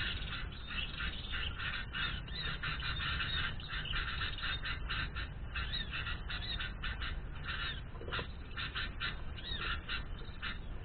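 Many small birds chattering and chirping rapidly and without a break.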